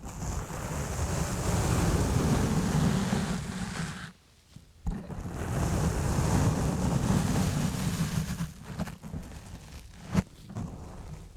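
Exfoliating gloves rubbing and scrubbing on a foam-covered microphone, a dense rubbing noise. Two long passages are broken by a short pause about four seconds in; after that come shorter scratchy strokes and one sharp knock near the end.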